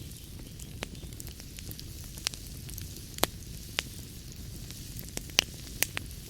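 Wood fire crackling in a fireplace: a steady low rumble of the flames, with sharp irregular pops and snaps several times a second.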